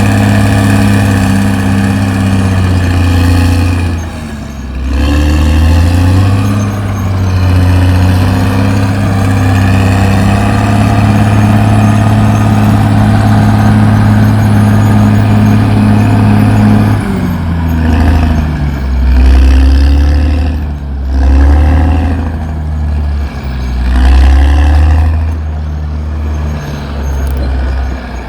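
Caterpillar D6R XL bulldozer's diesel engine running hard and steadily, with a brief dip in pitch about four seconds in. In the last third the engine note drops and then rises and falls again several times.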